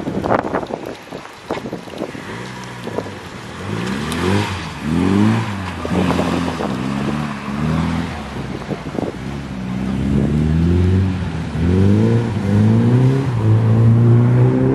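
BMW E21 3 Series rally car accelerating hard out of a hairpin, its engine revving up through the gears with the pitch climbing and dropping back at each gear change. There are a few sharp pops in the first second or two.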